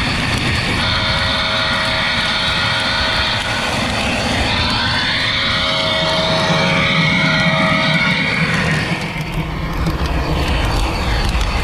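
Model train running with onboard locomotive sound: a steady engine rumble under two long two-note horn blasts, the first about a second in and the second mid-way.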